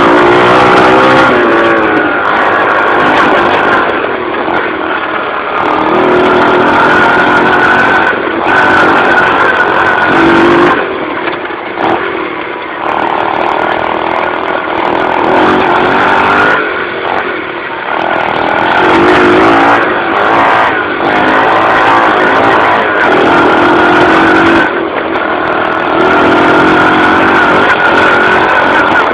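Dirt bike engine being ridden hard: the revs repeatedly climb under throttle and drop back through gear changes, with a few brief lulls midway.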